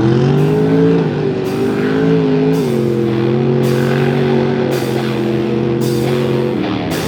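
Mud truck engine held at high revs, its pitch shifting slightly up and down, with rock music playing over it to a steady beat.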